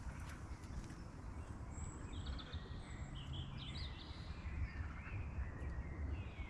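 Birds chirping in short, bending calls, clustered from about two seconds in, over a steady low background rumble.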